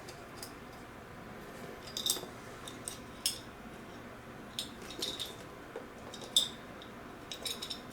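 Light, irregular metallic clinks and clicks of a keychain's metal ring and hardware being worked through a loop on a leather belt bag, a handful of separate taps a second or so apart.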